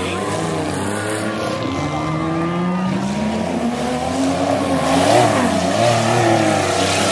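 Engines of several small race cars running together at racing speed, their pitches rising and falling as they accelerate and pass.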